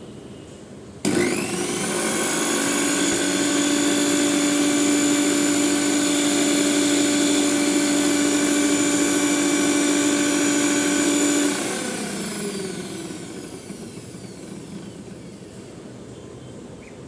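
Philips mixer grinder's electric motor switched on about a second in, running at a steady whine while grinding quartered onions, then switched off and spinning down, its pitch falling as it fades over several seconds.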